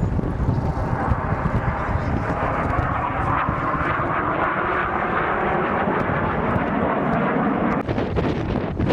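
Fixed-wing aircraft flying past in a display. The engine noise builds to its loudest in the middle and eases off near the end, over a low wind rumble on the microphone.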